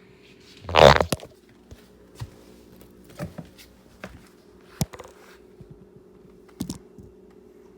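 Kitchen handling noise: one loud clatter about a second in, then a few light knocks and clicks, over a steady low hum.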